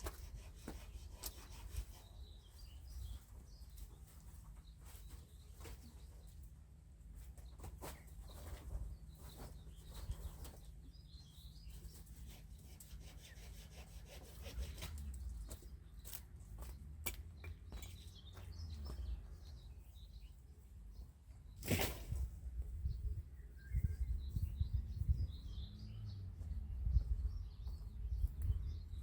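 Small birds chirping faintly now and then over a low rumble, with scattered light knocks and clicks, the loudest a sharp click about 22 seconds in.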